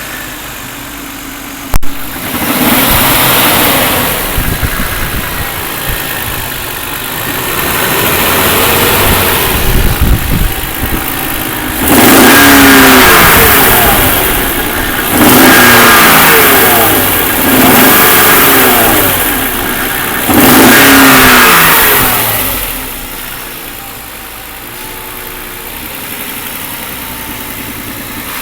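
BMW M52 straight-six engine idling, then revved in about six short blips that rise and fall in pitch before it drops back to a steady idle, with a sharp click just before the first rev. The engine has a knock that the owner places in the sixth cylinder.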